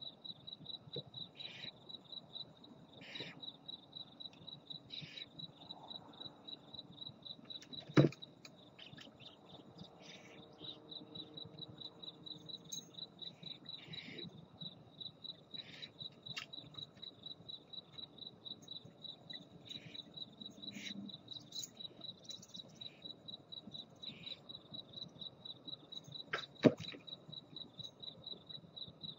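A cricket chirping in a steady, even high-pitched pulse, with other high insect chirps mixed in. Two sharp knocks, about eight seconds in and near the end, stand out as the loudest sounds.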